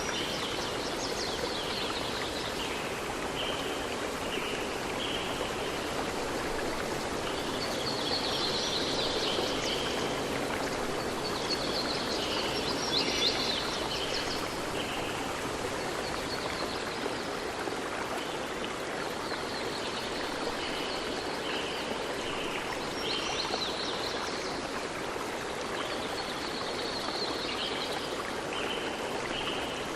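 Steady rush of running water from a stream, with birds singing short chirping phrases over it again and again.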